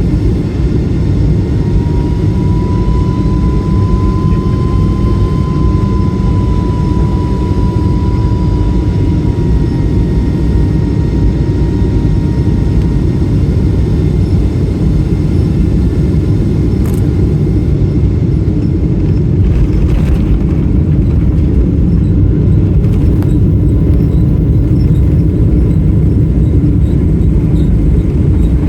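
Steady low rumble of a Boeing 777-300 heard from inside the cabin on the ground after landing: the Rolls-Royce engines and airframe running, with a faint whine that rises a little and fades during the first half.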